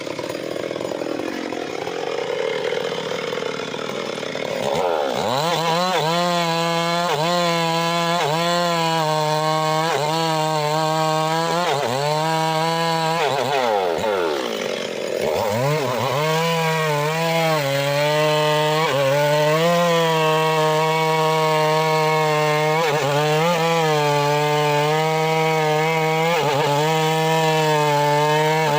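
Two-stroke petrol saw engine cutting mahogany. It runs quieter for the first few seconds, then revs up to a high steady pitch that dips and recovers under the load of the cut. About thirteen seconds in it falls off and it revs back up about two seconds later.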